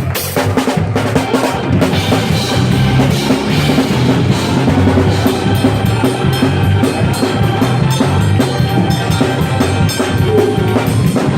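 Up-tempo praise-break music driven by a busy drum kit, with bass drum, snare and quick, regular cymbal strikes under the band.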